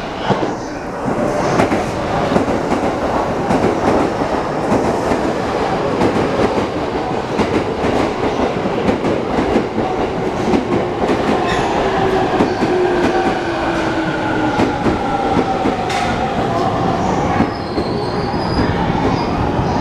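Electric commuter train pulling into the platform: wheels clacking over rail joints and the motor whine falling in pitch as the train slows.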